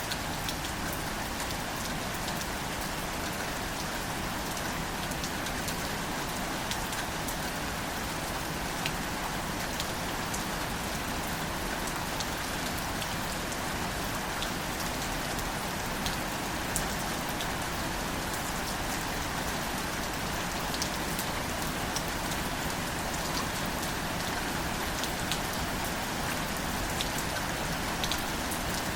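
Gentle steady rain falling on wildflowers and leaves, with scattered sharp ticks of single drops striking close by.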